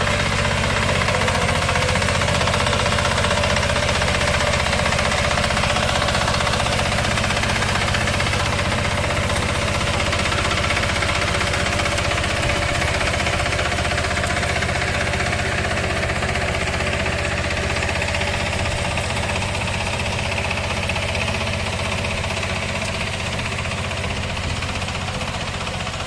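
A crawler tiller tractor's 35 hp diesel engine running steadily at an even speed.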